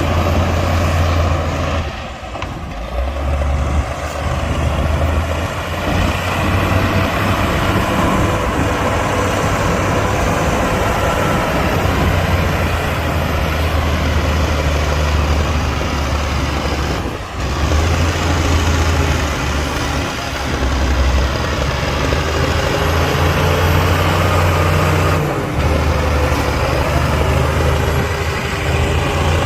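Heavy diesel earthmoving machine running steadily with a deep engine note. The sound dips briefly three times: about two seconds in, past the middle, and near the end.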